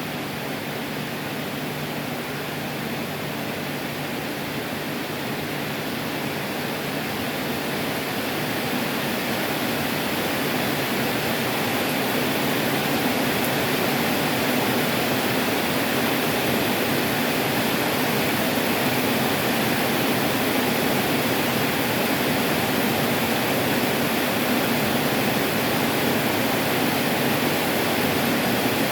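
Heavy rain pouring down: a steady, dense hiss that builds over the first ten seconds or so and then holds.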